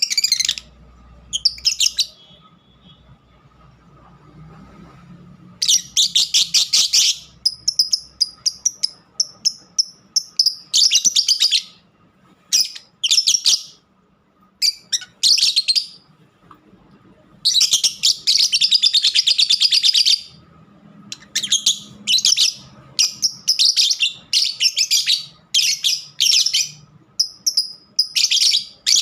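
Pet lovebirds chattering in high-pitched, rapid chirping bursts of a second or two, repeating over and over with short pauses between.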